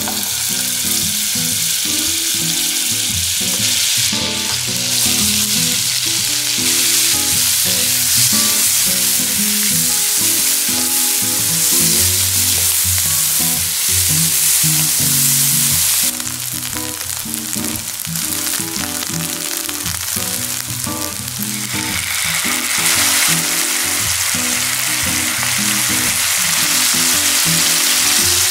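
Butter, then sliced onion and chives, sizzling and frying in a hot nonstick frying pan as a spatula stirs them, a steady hiss that dips about two-thirds of the way through and builds again. Soft background music plays underneath.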